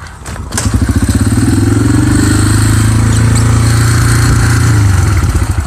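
A 125cc dirt bike kick-started with the clutch pulled in: it catches about half a second in and runs steadily, the pitch rising a little with some throttle, then dies away near the end.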